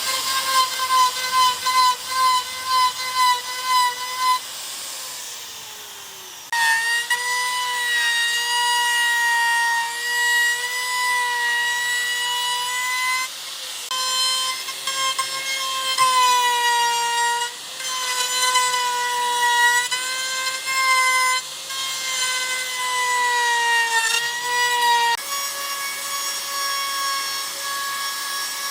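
Electric power tool working wood: its motor whines in short pulses, about two a second, for the first few seconds, then runs continuously with the pitch wavering up and down.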